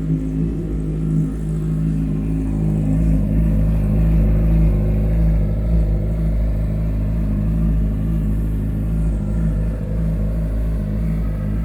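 Yamaha YZF-R6's 600 cc inline-four idling steadily through a Two Brothers aftermarket exhaust, a deep, even rumble.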